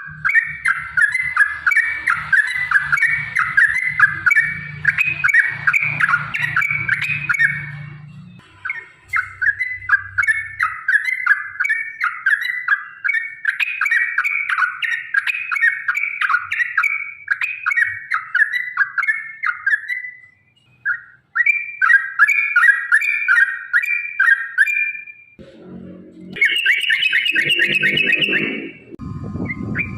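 Yellow-vented bulbul (trucukan) singing long, rapid chattering phrases with brief pauses between them: the extended 'ropel' song that keepers play as a lure to make other bulbuls answer.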